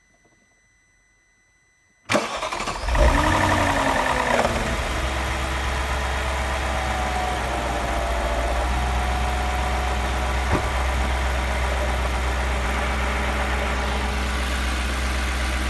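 Audi S4 B6's 4.2-litre V8 starting about two seconds in: it catches, revs briefly with a whine that falls in pitch as the revs drop, then settles into a steady idle. This is the start-up noise the owner is asking about. There is a single click later on.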